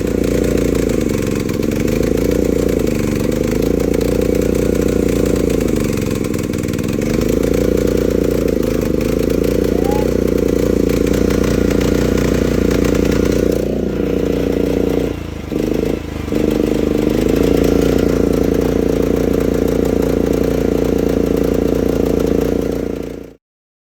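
Rippa Mule Trac mini excavator's Briggs & Stratton gas engine running hard, its speed wavering up and down, with two brief dips about fifteen seconds in before the sound cuts off abruptly near the end. The owner blames his trouble keeping it running on air still getting into the fuel line from the tank.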